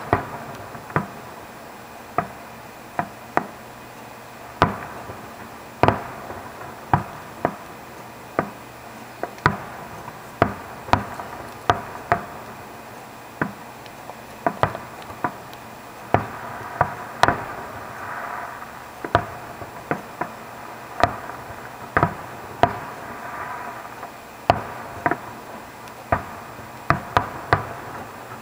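Aerial firework shells bursting: an irregular string of sharp bangs, about one or two a second, each with a short echoing tail.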